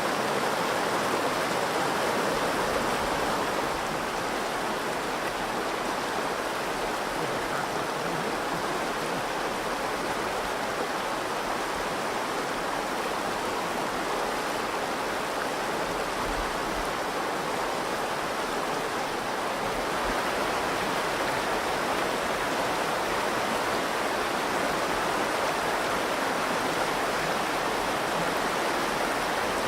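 The Virgin River flowing and rushing steadily over its rocky bed.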